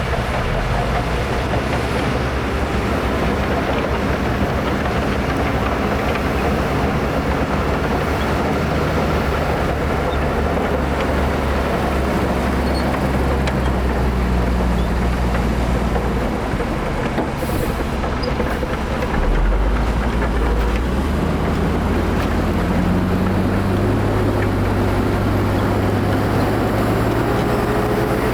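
Diesel engines of heavy earthmoving machinery running continuously. The pitch shifts several times as they work, and they get a little louder about two-thirds of the way through.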